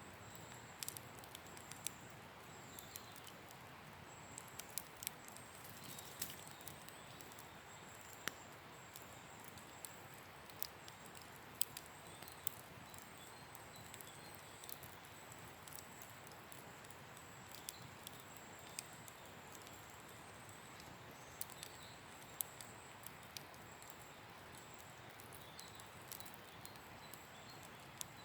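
Wood campfire crackling: irregular small sharp pops and snaps over a faint steady hiss.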